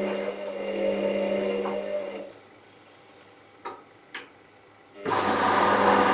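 Hoover VisionTech washing machine running: the drum motor hums with a whine that swells and fades, then stops about two seconds in. Two sharp clicks follow, and about five seconds in a loud rushing noise with a steady low hum starts suddenly.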